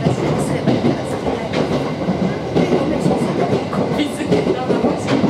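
Cabin sound of an Aoimori Railway 701 series electric train running along the line: a steady rumble with the wheels clicking now and then over the rails.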